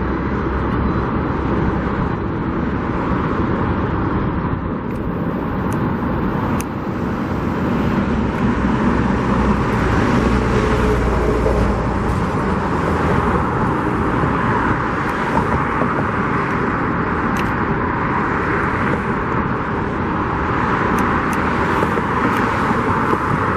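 Steady road traffic: cars passing on a busy street, a continuous rushing noise that swells and fades as vehicles go by.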